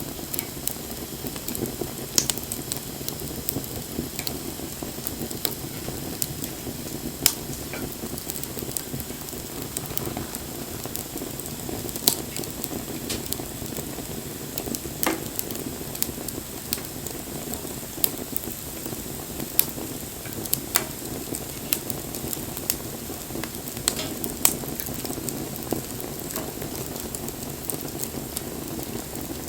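Wood campfire burning: a steady hiss with frequent sharp crackles and pops, the loudest every few seconds.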